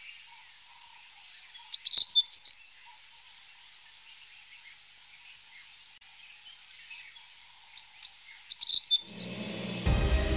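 Small birds chirping in short bursts, loudest about two seconds in and again near the end, over a faint steady background.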